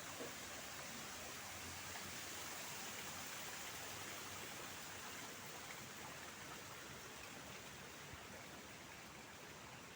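Faint steady outdoor background hiss, easing slightly toward the end.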